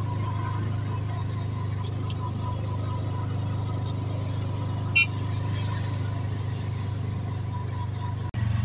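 Motorcycle engine of a motorized tricycle running steadily under way, heard from inside the sidecar, with one short click about five seconds in. The sound drops out for an instant near the end and comes back louder.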